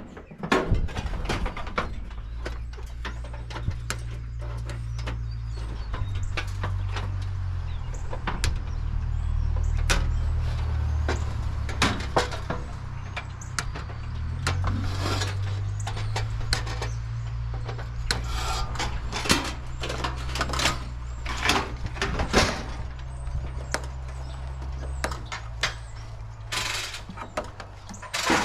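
Repeated knocks, clanks and clicks of appliances being taken apart for scrap metal, over a low steady hum that shifts in pitch a few times and stops near the end.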